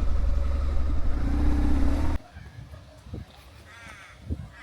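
BMW R1150 GSA motorcycle running under way, a loud low engine drone with wind noise, rising in pitch shortly before it cuts off suddenly about two seconds in. After that, quieter outdoor sound with a few crows cawing near the end.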